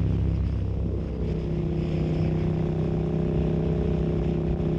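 Yamaha MT-07's parallel-twin engine running steadily under way, picked up by a bike-mounted mic. The engine note shifts a little in the first second, then holds even.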